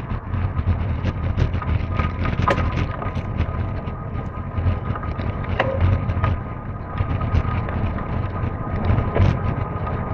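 Mountain bike riding over rough ground: continuous rumble and rattle from the bike, with frequent clicks and knocks, a thin steady whine, and wind buffeting the microphone.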